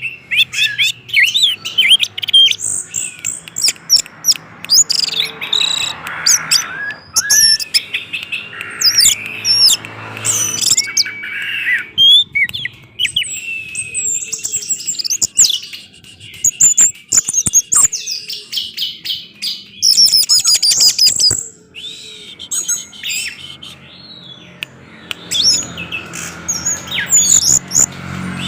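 Orange-headed thrush singing a loud, rapid song of varied whistled and chattering phrases, with a short lull about three quarters of the way through.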